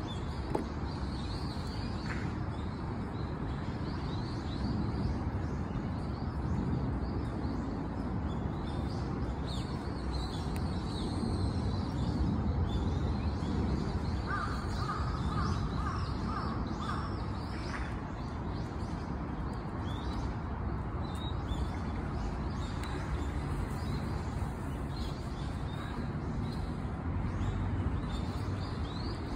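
Birds calling over a steady low outdoor rumble: scattered high chirps throughout, and a quick run of repeated calls about halfway through.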